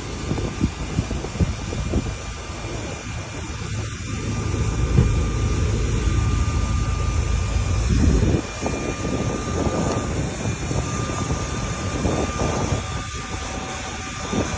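Steady jet aircraft engine noise, a low rumble with a faint steady whine above it; the low rumble drops back about eight seconds in.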